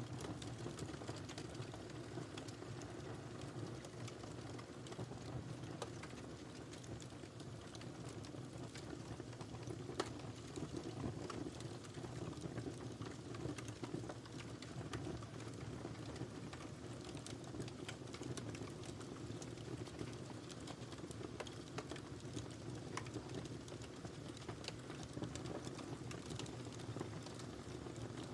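Firewood burning in a fireplace: a steady low rumble of flames with continual small crackles and pops, and one louder snap about ten seconds in.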